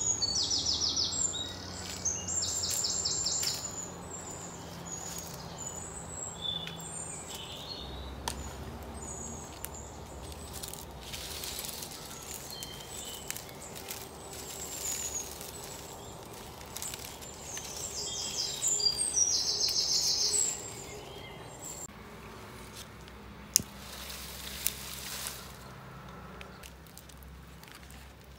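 Birds chirping and calling, with a loud, rapid, high trill heard three times: at the start, about two seconds in, and again about two-thirds of the way through.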